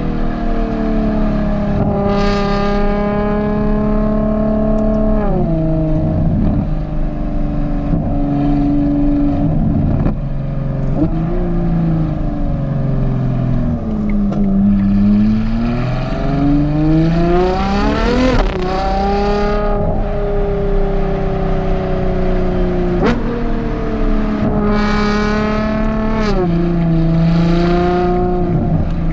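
Ferrari Purosangue's naturally aspirated V12 through a Novitec race exhaust, pulling through the gears. Its note holds and climbs, then drops sharply at each upshift, with one long, steep rise in pitch just past the middle before the next shift.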